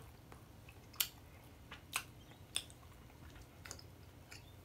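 Faint close-miked chewing and mouth sounds, with a few sharp wet clicks, the clearest about one, two and two and a half seconds in.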